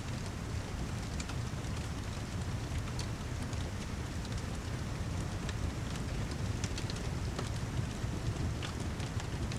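Steady rain with a low, even rumble underneath, mixed with a fireplace crackling in scattered sharp pops.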